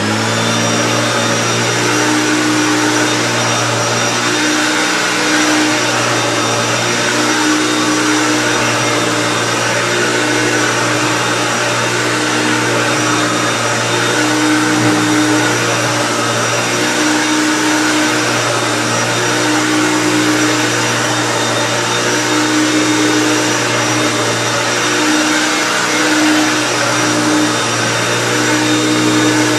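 Hoover Turbopower Total System U2798 upright vacuum cleaner switched on and running steadily, a motor whine over a low hum, with a lower tone swelling and fading every couple of seconds. Its 1995 motor housing makes it a little louder than the earlier Turbopowers.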